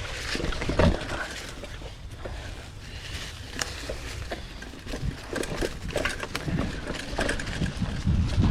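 Mountain bike rolling over a rough dirt trail: tyres on the ground and the chain and frame rattling, with irregular knocks over bumps and a low rumble.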